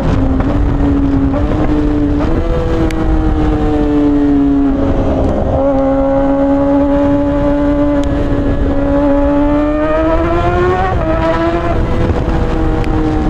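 Suzuki GSX-R600 K6 inline-four running through a straight-piped, catless M4-style exhaust, holding a fairly steady cruising note whose pitch eases up and down with small throttle changes, rising toward the end before settling back.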